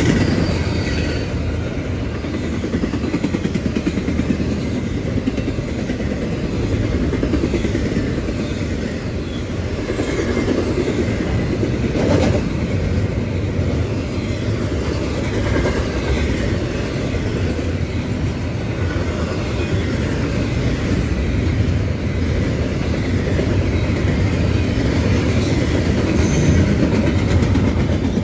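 A train passing close by at speed, around 60 mph: steady noise of wheels running on the rails, with a single sharp clank about twelve seconds in.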